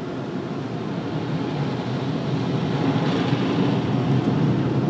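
Automatic car wash heard from inside the car: a steady rushing noise from the wash equipment, growing gradually louder.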